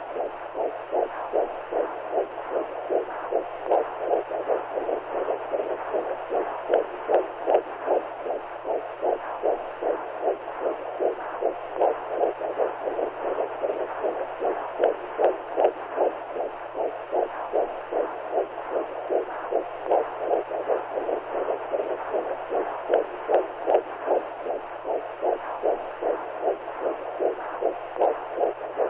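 Womb sound: a steady rhythm of whooshing, heartbeat-like pulses over a continuous rushing noise, as a mother's heartbeat and blood flow are heard from inside the womb.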